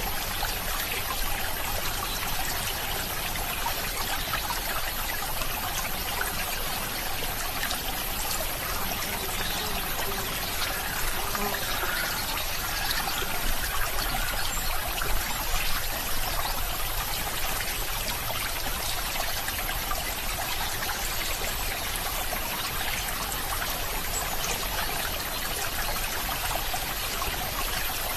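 Water in a stream trickling steadily.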